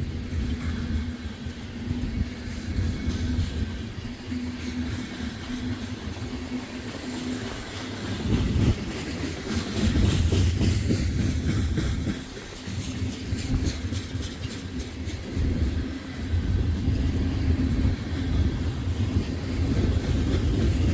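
Freight train cars rolling past at close range: a steady low rumble of steel wheels on rail that swells louder in stretches, with a faint steady hum underneath.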